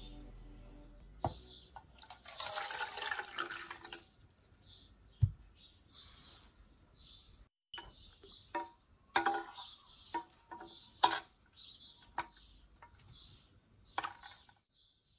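Fountain pen parts dropped one at a time into the water in a stainless-steel ultrasonic cleaner tank: a string of small knocks and plops, most of them in the second half, after a short rush of water about two seconds in.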